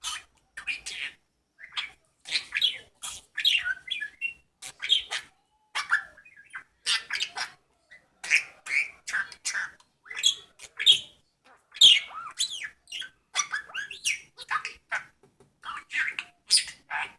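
Pet budgerigar chattering: a rapid, almost unbroken string of short chirps and squawks.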